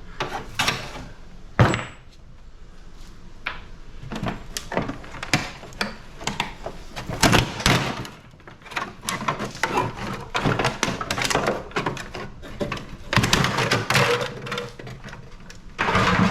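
Hand tools knocking, clicking and scraping against an air conditioner's sheet-metal housing as it is taken apart, in an irregular series of clanks with one sharp bang about a second and a half in.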